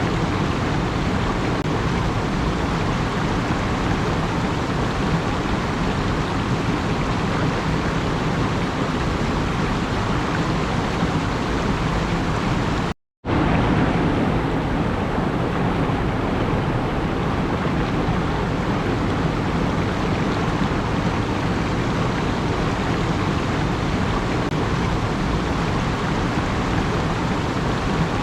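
Steady, even rushing noise that drops out to silence for a moment about thirteen seconds in.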